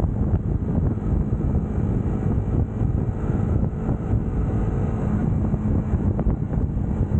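UM Scrambler X Naked motorcycle engine running at a steady note while riding, with wind buffeting the microphone.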